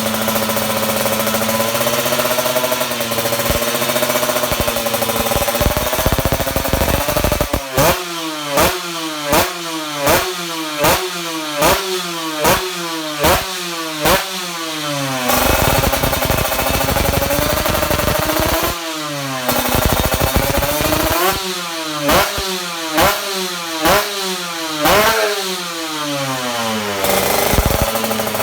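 Kawasaki Ninja 150RR's two-stroke single-cylinder engine through an Ahau One Racing aftermarket exhaust. It idles at first, then is revved in quick repeated throttle blips, each rising and falling, about one every three-quarters of a second. Between the runs of blips the revs are held up for a few seconds.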